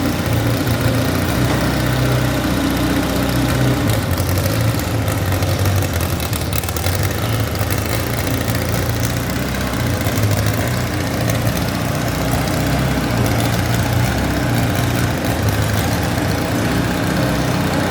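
Garden pulling tractor engine idling steadily.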